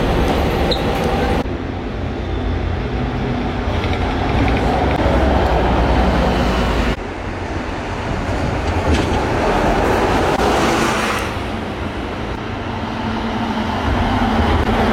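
Light-rail tram running on its rails, a steady rumble of wheels and motors that shifts suddenly about a second and a half in and again about seven seconds in.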